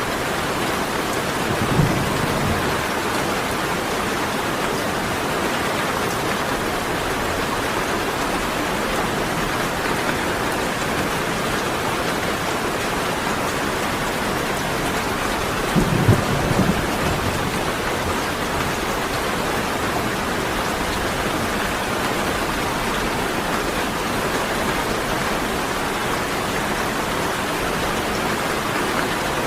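Steady rain falling, with two short low rumbles of thunder, one about two seconds in and one about halfway through.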